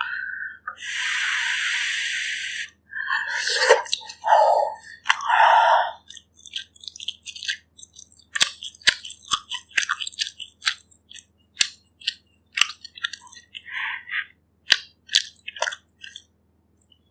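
Close-miked eating sounds of bak kut teh: a long airy slurp near the start and a few shorter slurps, then chewing of pork ribs with many sharp wet clicks and smacks.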